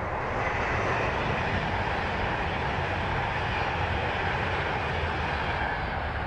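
Railway locomotive running: a steady, loud rumble with a rushing noise over it.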